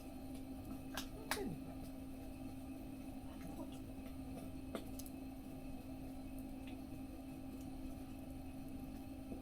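Wood fire crackling in a mesh fire stove: a few sharp, scattered pops, with a steady low hum.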